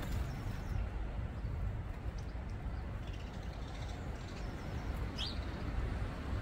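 A few short bird calls, one clearer sweeping call about five seconds in, over a steady low rumble of background noise.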